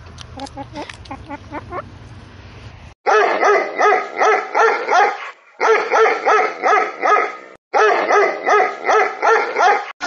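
Dog barking rapidly, about three barks a second, starting suddenly about three seconds in. The barking comes in three runs broken by brief silent gaps.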